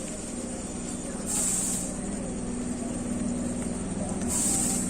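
Steady hum of an electric local train standing at the platform, with two short bursts of high hiss about three seconds apart.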